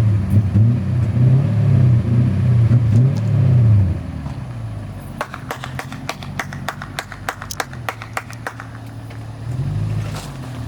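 Lexus GS430's 4.3-litre V8 revved several times through its stock mufflers, then settling to idle, with one more short rev near the end. About halfway through, a quick run of sharp clicks sounds over the idle.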